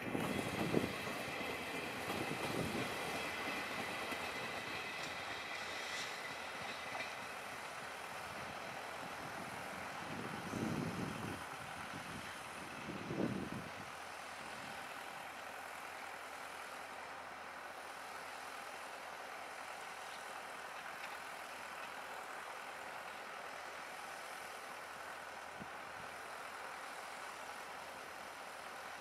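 Locomotive-hauled passenger train rolling away over the station's switches. Faint wheel squeal and a few low thumps from the wheels come in the first half, most clearly about 11 and 13 seconds in, then it fades to a steady low background noise.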